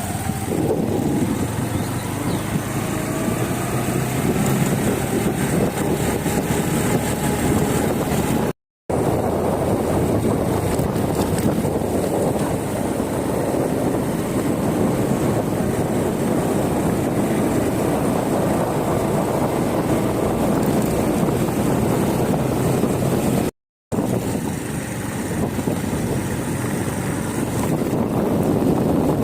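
Steady wind rushing over the microphone together with the rolling noise of travelling along a road. It breaks off twice for a moment at sudden cuts.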